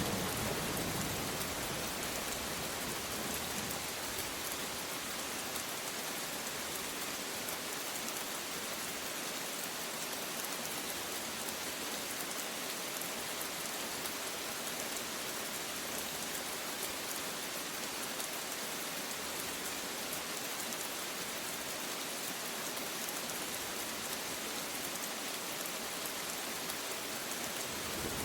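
Steady rain falling, an even hiss of drops at a constant level, with the tail of a thunder rumble fading out in the first second or so.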